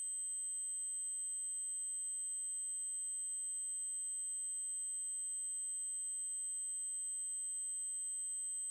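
Synthesized 8192 Hz triangle-wave test tone: a steady, very high-pitched whine that does not change.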